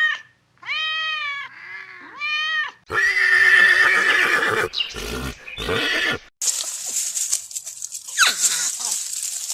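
A series of different animal calls: three short, arched, pitched cries in the first few seconds, then rougher, noisier calls, then a high hiss with a few falling cries near the end.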